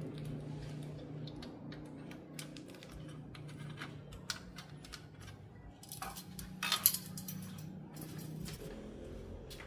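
Small metal tools and parts clicking and clinking as they are handled during a TV repair, with a cluster of louder clicks a little before seven seconds in, over a steady low hum.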